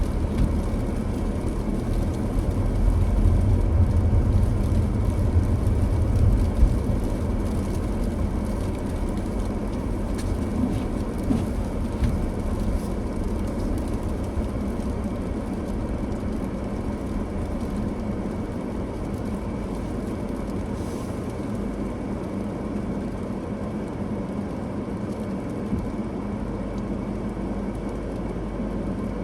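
Car being driven: steady road and tyre noise with a low rumble, heaviest a few seconds in and then easing off.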